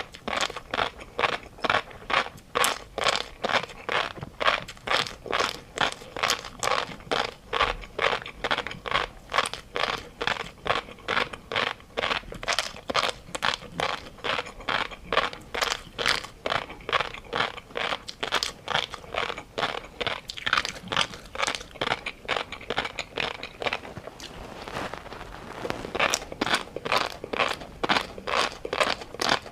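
Close-up chewing of crisp, crunchy food, a steady rhythm of about three crunches a second, easing off briefly about three quarters of the way through before resuming.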